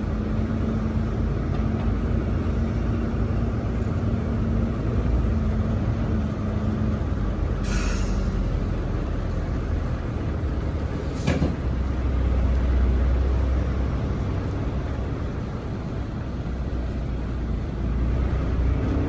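Semi-truck running on the road: a steady low engine and road rumble, with a humming tone that fades out about a third of the way in. Two brief sharp sounds come near the middle.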